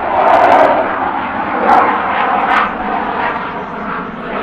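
Fixed-wing aircraft engine noise, loud and steady, swelling about half a second in and again just under two seconds in.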